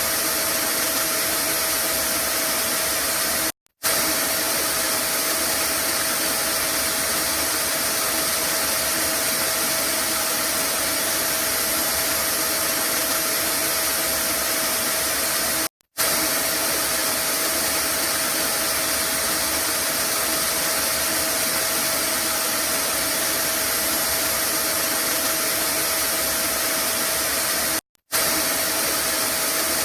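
Vacuum cleaner running steadily: a constant rushing hiss of air with a faint steady whine in it. The sound cuts out for a split second three times, about every twelve seconds.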